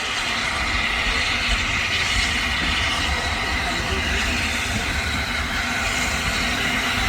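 Steam locomotive 71000 Duke of Gloucester, a three-cylinder BR Standard Class 8P pacific, rolling in with its train. Its wheels and running gear make a steady, even noise that grows slightly louder, with no clear beat of exhaust.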